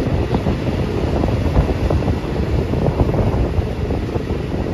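Passenger train running along the track, heard from on board: a steady low rumble with irregular rattling and clatter, and wind buffeting the microphone.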